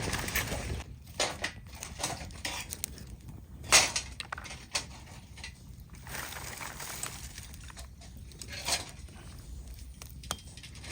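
Irregular clicks and knocks of things being handled, with a loud knock about four seconds in and another near the end, over a low steady outdoor background.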